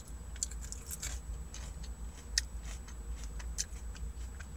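Close-up chewing with the mouth full: irregular soft wet clicks and smacks, over a low steady hum.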